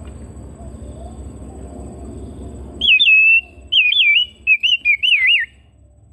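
Oriental magpie-robin (kacer) singing: a run of loud, clear whistled notes that swoop up and down in several short phrases. The song starts about halfway in and breaks off about a second before the end, over a low background rumble.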